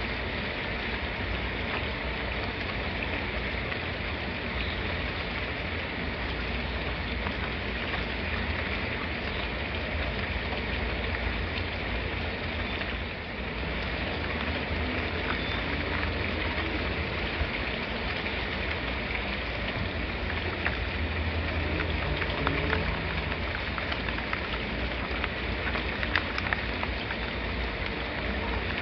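Steady rain falling, a constant hiss with scattered sharper drop ticks and a low rumble underneath.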